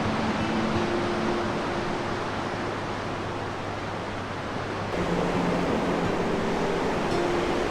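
Steady rushing noise, changing character about five seconds in, with soft background music of held notes beneath it.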